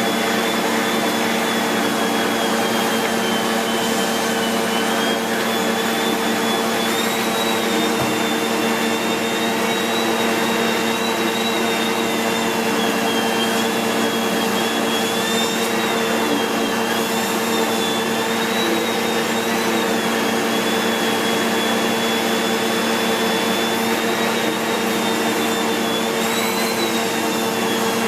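SEBO X4 Extra upright vacuum cleaner running steadily, pulling air through its extended stair hose and turbo tool: a steady motor hum under a high whine that wavers slightly up and down in pitch.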